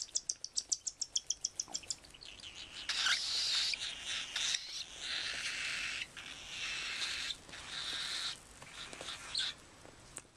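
Cockatiels calling: a quick run of short, high chirps, about eight a second, then from about three seconds in a series of long, harsh, raspy calls in stretches of one to two seconds.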